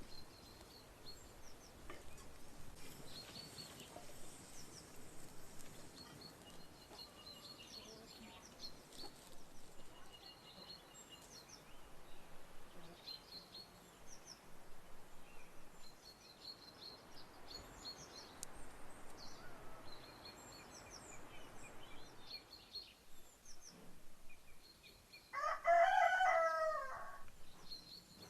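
A rooster crowing once near the end, one loud call about two seconds long, over a steady background of small birds chirping.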